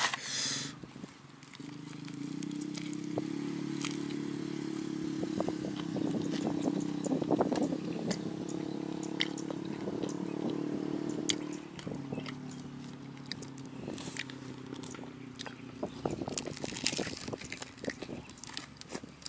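Crunching and chewing of crispy fried chicken coating: repeated sharp crackles, densest around the middle. A steady low hum runs under it from shortly after the start until about twelve seconds in.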